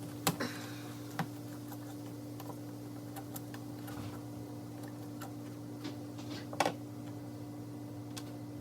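Scattered small metallic clicks and taps from hand work on a steering box's ball-return tube and its loose ball bearings. The louder clicks come near the start, just after a second in, and again about two-thirds of the way through.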